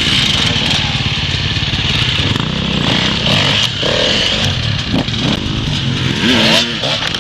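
Dirt bike engine running, with the throttle blipped so the revs rise and fall several times near the end, over a steady high hiss.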